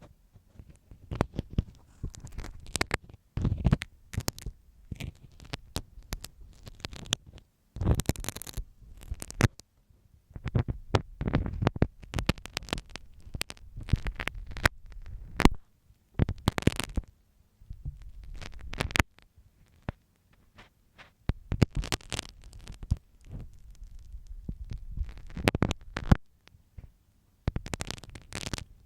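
A marking pin doing ear-cleaning strokes inside an ASMR microphone's ear: close scratching, scraping and sharp clicks in irregular bursts with short pauses, over low rumbling from the handling.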